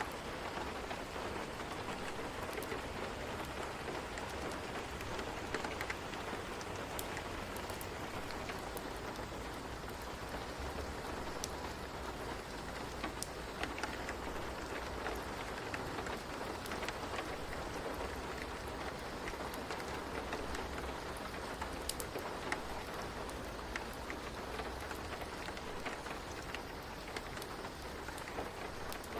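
Steady rain falling on a surface, a continuous even hiss with scattered sharp drop ticks.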